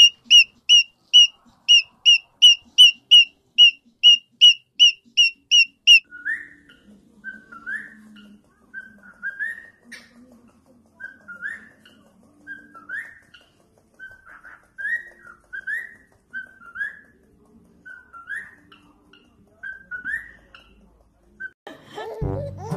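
Cockatiel chirping: a fast run of short, sharp, high chirps, about three a second, then, about six seconds in, a series of short rising whistles, roughly one a second. Music comes in near the end.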